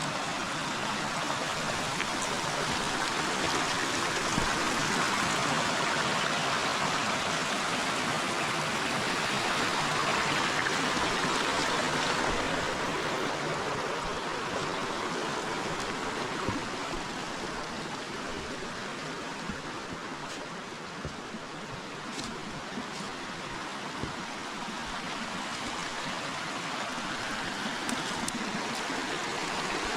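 Forest river flowing: a steady rush of running water, louder through the first dozen seconds and easing off about two-thirds of the way through before building again.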